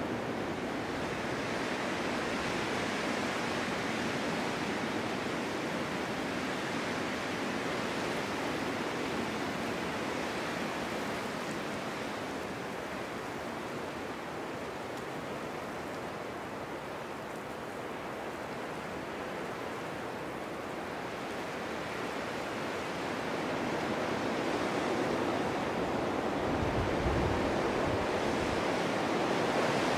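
Strong winter wind blowing steadily in a snowstorm, a continuous rushing noise that eases a little midway and gusts up again in the last few seconds.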